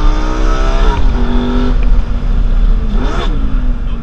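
Lamborghini engine revving up under hard acceleration. Its pitch drops sharply about a second in as the paddle-shift gearbox changes up a gear, then holds steady, with a brief dip and pick-up near the end.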